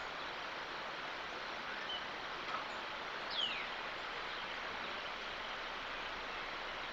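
Steady outdoor background hiss with a bird calling over it: a short high chirp about two seconds in, then a single falling whistle about three and a half seconds in.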